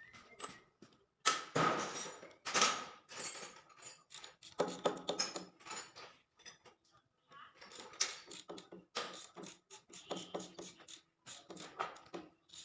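Irregular clinks, knocks and scrapes of hand tools and metal engine parts being handled during engine repair work, loudest about a second in.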